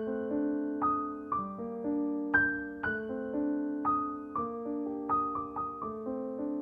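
Background music: a gentle solo piano melody, single notes and chords struck every half second or so and left to ring out.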